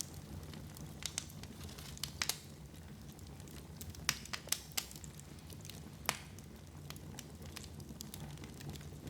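Wood fire in a fireplace crackling over a low, steady background, with sharp pops scattered irregularly, about eight in all.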